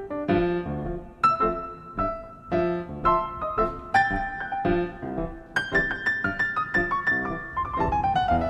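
Background piano music: single struck notes and chords that ring and fade, with a falling run of notes near the end.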